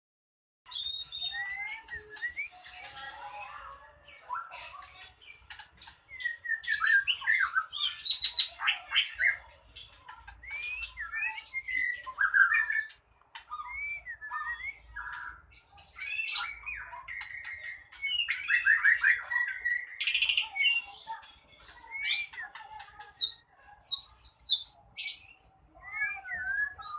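A short-tailed songbird singing hard and almost without a break, in fighting mode: a fast, varied run of whistled slurs, rapid trills and chattering rattles, clicks and harsh notes. This is the aggressive 'ngamuk' song that bird keepers play to set their own birds singing and fighting back.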